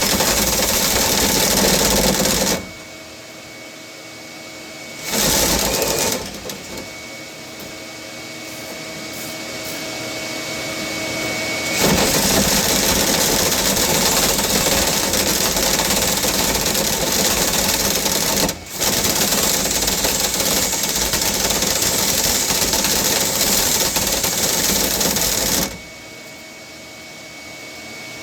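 Dryer-vent cleaning vacuum motor running with a steady high whine. It drops away three times to a quieter mechanical hum, once for several seconds with the sound slowly building back up, before running at full strength again.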